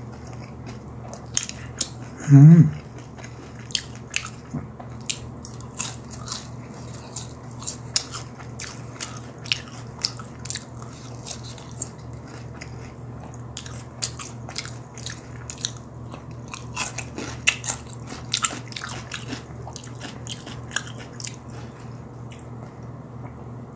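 Close-miked chewing of crispy BHC Puringkle boneless fried chicken: a long run of sharp wet crunches and mouth smacks, with a short voiced "mm" about two and a half seconds in, over a low steady hum. The chewing stops shortly before the end.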